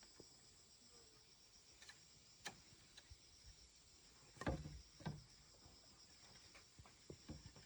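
Faint steady chirring of insects, with a few soft knocks scattered through it, the loudest pair about halfway through.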